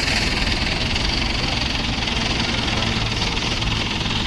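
Mahindra Yuvo Tech Plus 575 tractor's diesel engine running steadily.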